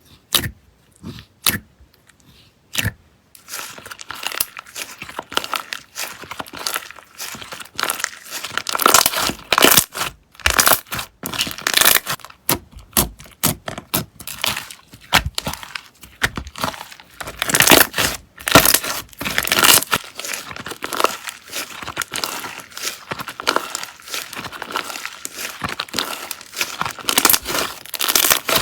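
Slime being squished and pressed by hand, making crackling, crinkling and popping sounds. It starts as a few separate pops, then turns into dense, continuous crackling about three seconds in.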